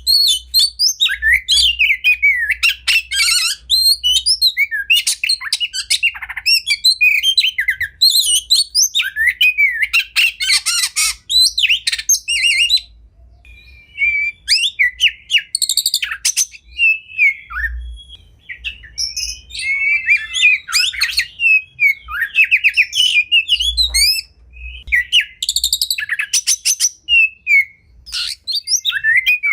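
Oriental magpie-robin (kacer) singing a fast, varied song of sweeping whistles and rapid trills, phrase after phrase, with a brief pause about halfway.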